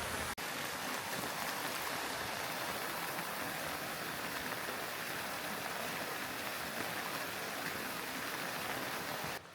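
Steady rain falling together with the rush of a mountain stream, an even hiss of water with no distinct drops standing out. A momentary break just after the start, and the level drops a little near the end.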